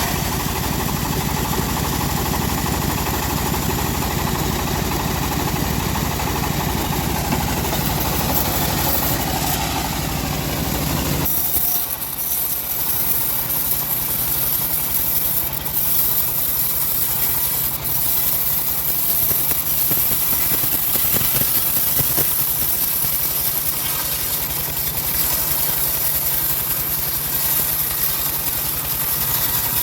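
Homemade engine-driven bandsaw mill running steadily. About eleven seconds in, the sound changes abruptly: the low engine rumble drops and a higher hiss takes over.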